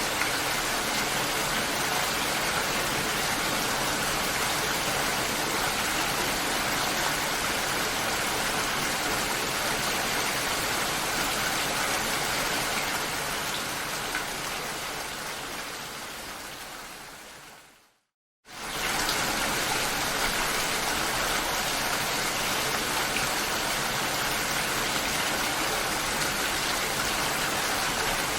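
Steady rain, an even hiss of many drops. About two-thirds of the way through it fades out over several seconds to a moment of silence, then cuts straight back in at full level, as a looped recording restarts.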